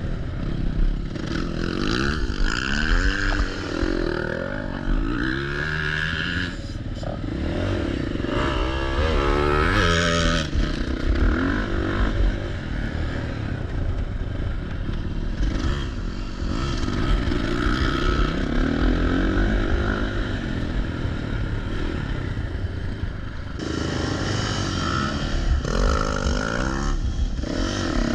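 Motocross dirt bike engine revving up and down over and over as it is ridden, its pitch climbing and dropping through the gears, steadier for a stretch in the middle.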